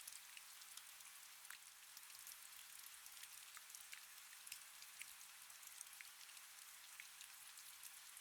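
Faint, calm rain: a steady hiss with many small drop ticks scattered through it.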